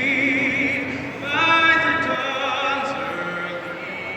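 A singer's voice holding long notes with strong vibrato, one note swelling loudest about a second and a half in.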